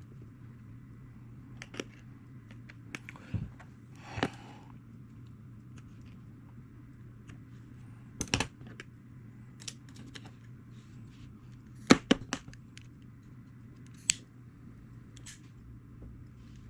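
Scattered clicks and knocks of hand tools and leather being handled on a work surface, with the loudest knocks about eight and twelve seconds in, over a steady low hum.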